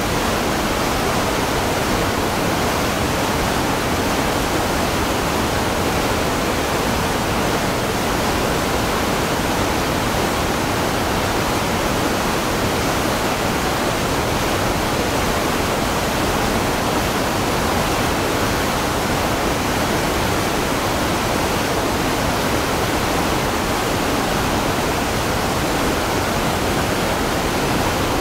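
Waterfall: a steady, even rush of falling water that stays at one level throughout.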